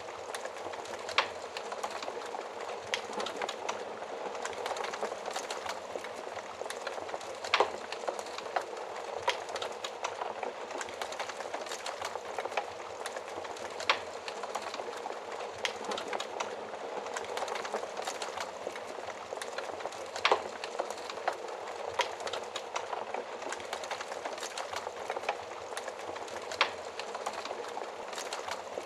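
Wood fire burning in a stove, with a steady hiss and sharp crackles and pops every few seconds.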